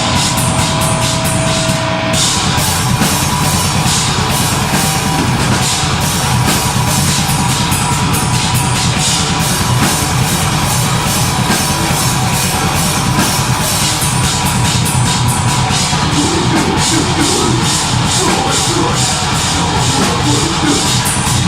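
Deathgrind band playing live and loud: distorted guitars and bass over fast, driving drums.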